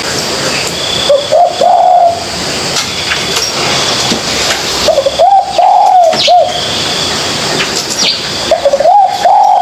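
Spotted dove cooing: three short phrases of low coos about four seconds apart, with faint high chirping behind.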